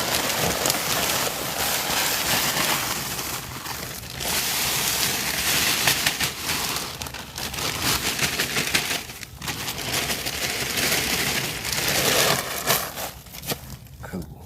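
Loose compost being tipped into a plastic storage tote: a rustling, rain-like hiss in three long spells with two short breaks, dying away near the end.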